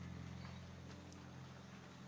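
Soft, low held chord of ambient meditation background music, a steady drone with a few faint high ticks over it.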